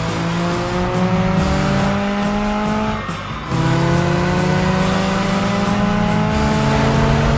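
Cartoon race car engine sound effect accelerating, its pitch rising steadily, breaking off about three seconds in and climbing again from a lower pitch like a gear change, over background music.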